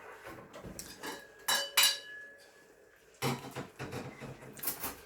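Metal cutlery clinking against dishes: two sharp, ringing clinks about a second and a half in, then softer clattering handling sounds.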